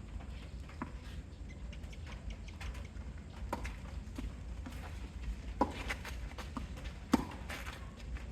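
Scattered sharp knocks and taps of play in a doubles game, hits and footsteps, over a steady low rumble; the loudest knock comes about seven seconds in.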